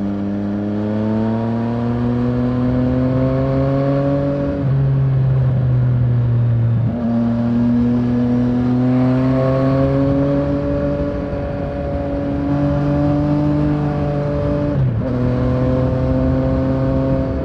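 Yamaha Tracer 900's three-cylinder engine pulling on the road, its pitch climbing slowly, with two short breaks in the sound, about five and fifteen seconds in.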